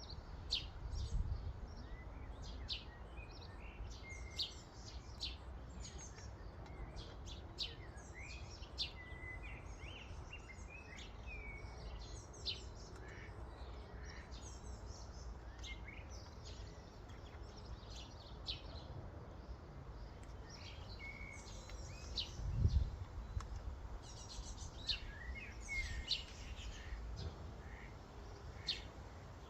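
A flock of common starlings chattering at a feeder: quick clicks, chirps and short whistles, many overlapping, over a steady low rumble. A single dull thump comes about three-quarters of the way through.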